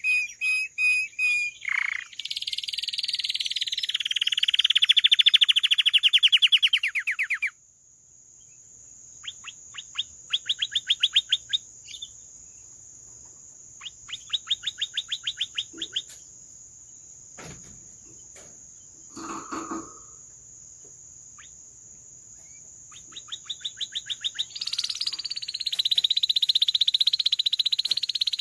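Domestic canary singing: rapid rolling trills in loud phrases, breaking into short trill bursts with pauses in the middle, then a long loud trill again near the end.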